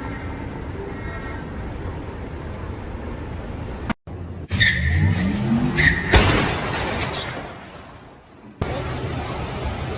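Car road and engine noise, then after a cut an engine revving up with brief high tyre squeals. About six seconds in comes a sudden loud noise that fades away over a couple of seconds, followed by steady road noise again.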